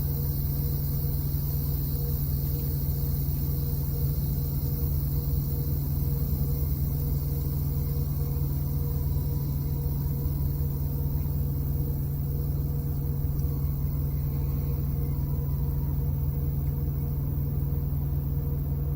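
Instant Pot pressure cooker venting steam through its release valve after a manual pressure release, a steady hiss, over a steady low engine rumble.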